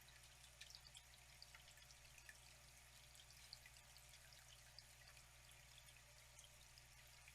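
Faint flowing water, a steady trickling hiss with many small drips and splashes scattered through it.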